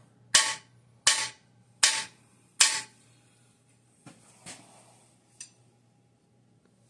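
Four light hammer taps, about three-quarters of a second apart, each with a short metallic ring, driving a camshaft bearing into the engine block, followed by a few faint small knocks.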